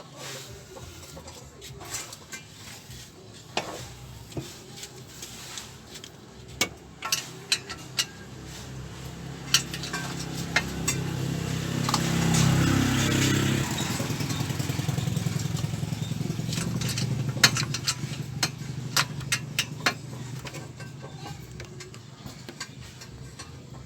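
Metal tools clinking and knocking on the engine as the exhaust is being removed. In the middle an engine hum swells up for about ten seconds and then fades, like a passing motor vehicle.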